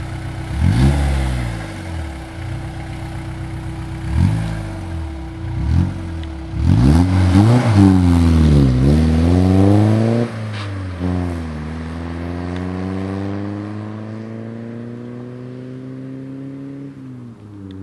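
Škoda Felicia 1.9 D's four-cylinder diesel engine, heard through an aftermarket Layting exhaust, idling and being revved. There are several short blips of the throttle, then a longer rev that rises and falls, then the revs are held higher and climb slowly before dropping back to idle near the end.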